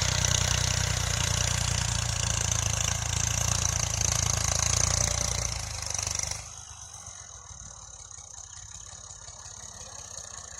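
Massey Ferguson tractor's diesel engine running steadily at idle. About six seconds in the sound falls away sharply, leaving only a faint low background.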